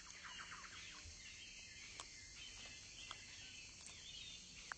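Faint natural ambience of small birds chirping: a quick run of short, high, falling chirps at the start, then scattered chirps and a couple of soft ticks over a low hiss.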